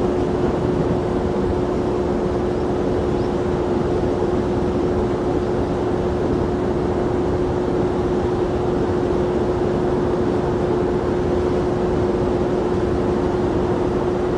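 Jet airliner engine noise running steadily, an even rush with a constant hum under it and no rise or fall in level.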